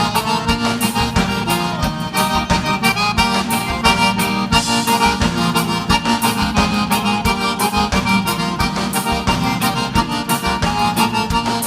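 Live gaúcho dance music without singing: an accordion leads a brisk vaneira-style melody over a steady bass and drum beat.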